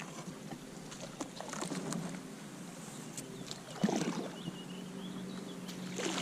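Kayak paddle strokes in shallow, weed-choked water: a few short splashes with scattered light knocks, the loudest stroke about four seconds in.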